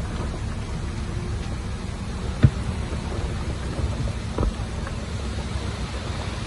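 Heavy earth-moving machine's diesel engine running with a steady low rumble, with a sharp knock about two and a half seconds in and a weaker one a couple of seconds later.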